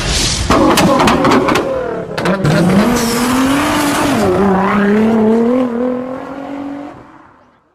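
Car engine revving: its pitch dips and rises, then holds roughly steady before fading out near the end, with a few sharp clicks early on.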